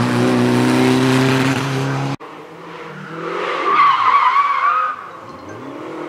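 A Group B rally car's engine held at high, steady revs, cut off abruptly about two seconds in. After the cut another car comes through, its engine note rising and falling, with a wavering high tyre squeal for about two seconds in the middle.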